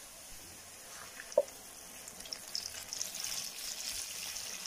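Diced pork frying in its own rendered fat in a large metal pot, sizzling and crackling as blended red chile sauce is poured in. The crackling grows louder from about two seconds in. A single sharp tap comes about a second and a half in.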